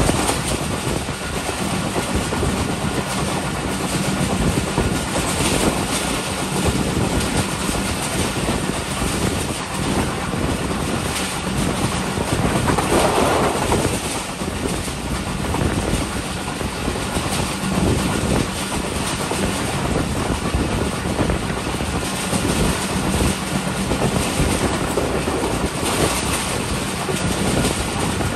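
Passenger train running at speed, its wheels clicking over the rail joints under a steady low hum. The rumble briefly changes about thirteen seconds in as the train crosses a railway bridge.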